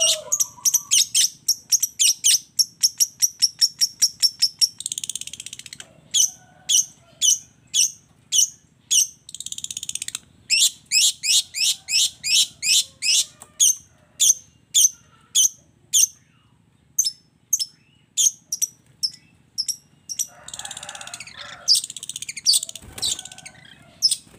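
Long-tailed shrike (cendet) song with mimicked calls: fast runs of sharp, high chips, then single notes about twice a second, broken by a few harsh, scratchy bursts near the middle and towards the end.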